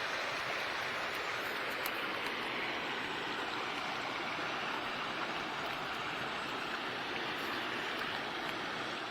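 Creek water running steadily over a rock bottom, with a few faint clicks.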